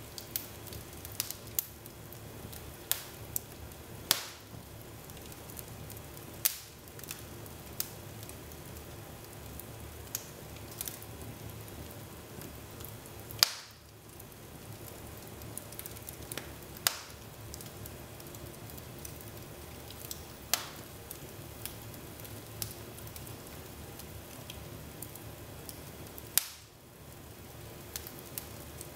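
Wood fire burning in a fireplace: a steady low hiss with irregular sharp crackles and pops, a few louder pops every several seconds, the loudest about halfway through.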